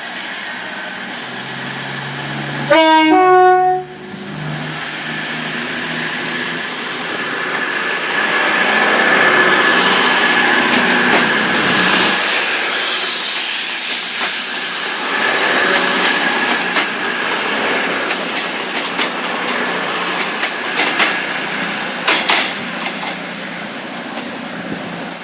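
Class 221 Super Voyager diesel-electric unit sounding a two-tone horn for about a second, then pulling away with its running noise building and a thin high whine slowly rising in pitch. A few sharp clicks come later as it moves off.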